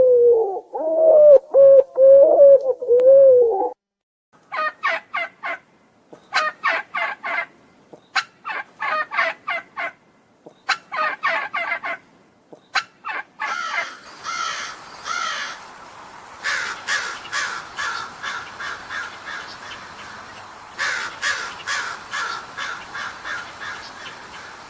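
A wavering, howl-like tone for the first few seconds, then a large bird's harsh calls in quick bursts of rapid repeated notes.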